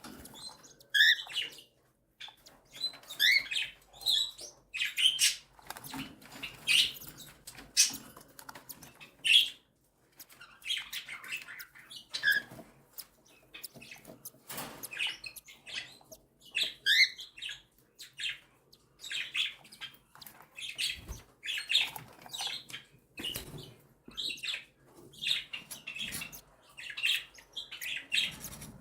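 Cockatiel chicks begging for food while being fed: many short calls in quick, irregular runs, with a few sweeping chirps.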